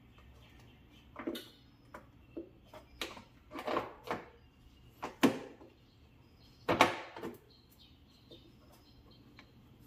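Irregular clicks, knocks and short clattering handling sounds, with the two loudest knocks about five and seven seconds in.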